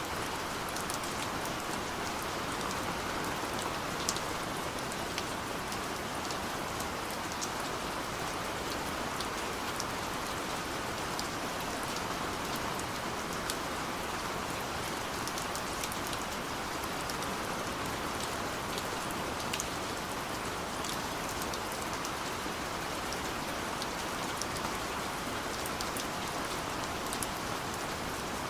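Steady rain falling, a continuous hiss with scattered sharp drop ticks on top.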